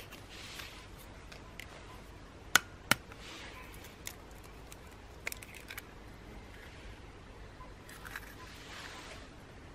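Scattered sharp clicks and pops over a faint hiss, with two loud ones close together about two and a half seconds in.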